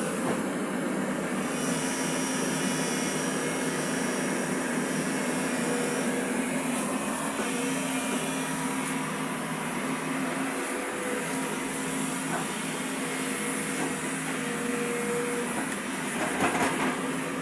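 Excavator's diesel engine running steadily, with a constant low hum over a broad mechanical noise and a brief louder surge near the end.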